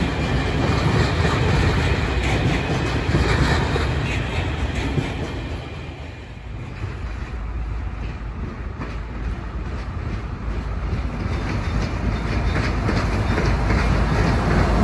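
Log-laden freight wagons rolling by on the rails with a clickety-clack, fading about six seconds in. Then a pair of Dv12 diesel-hydraulic locomotives approach, their engines growing louder toward the end.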